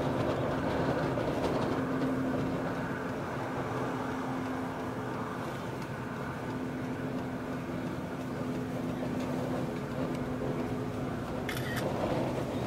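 Steady road and engine noise heard from inside a moving car, with a low drone running under it. A brief high-pitched hiss comes near the end.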